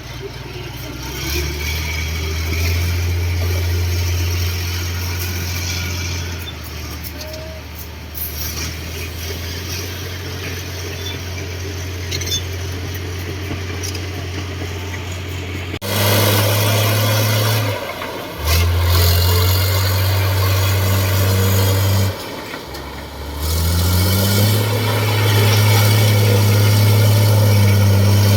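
Heavy diesel engine running, its low note shifting as the load changes. About halfway through the sound changes abruptly and dips twice, then the engine revs up and holds a higher, steady pitch near the end.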